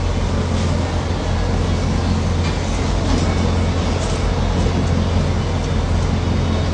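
Steady rumbling noise with an even hiss, unbroken and without speech.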